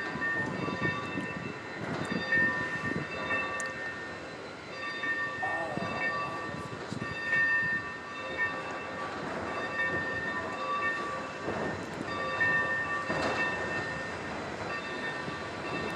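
Train rolling on the track, heard from aboard: a steady rumble and clatter, with a high ringing tone that keeps cutting in and out every second or two.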